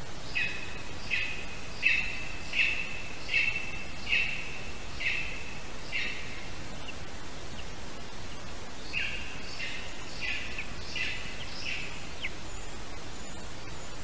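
A bird calling a run of short, high repeated notes, about one every three-quarters of a second, eight in a row, then after a pause about six more, a little quicker. Under it a steady hiss.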